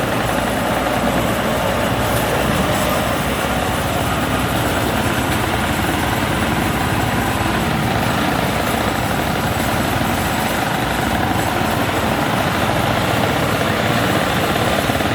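WD102 PRO rice combine harvester's engine running steadily as the machine drives along the road, a loud, unbroken drone mixed with road and wind noise.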